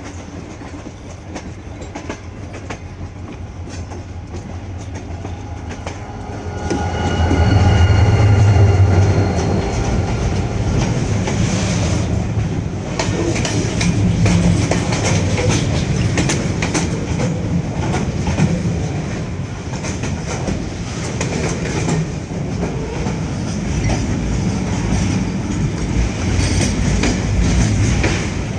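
Passenger train rolling into a station: a deep rumble swells as the locomotive draws near, with a steady multi-note horn-like tone for about four seconds. The wheels then clatter steadily over the rail joints as the coaches go by.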